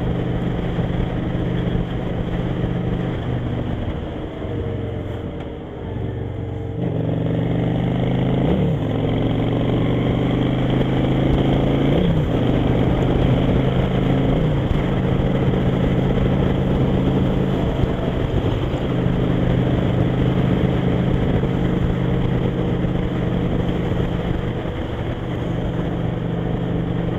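Motorcycle engine running at cruising speed under a low wind rumble, eased off about four seconds in and then pulling again about seven seconds in, with a few brief changes in pitch after that.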